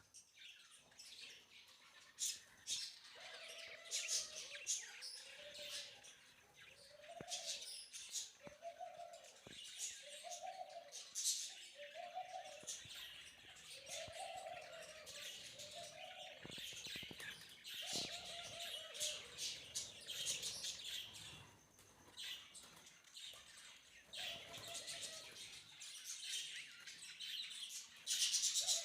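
Budgerigars chirping and chattering in quick, high calls. Through the first half a lower, arched call repeats about once a second.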